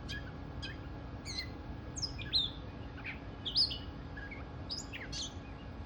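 A bird calling on and on: a quick run of short, varied chirps and whistles, a few a second, some sliding up or down in pitch.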